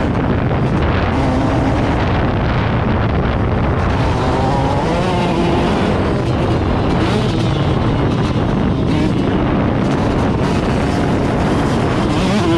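Off-road vehicle engine running under way, its pitch rising and falling as the throttle is worked, over dense rushing noise.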